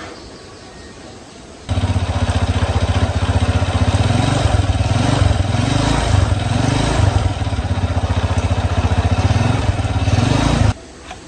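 Small motorcycle engine running loudly with slight rises and falls in pitch; it comes in abruptly about two seconds in and cuts off sharply near the end.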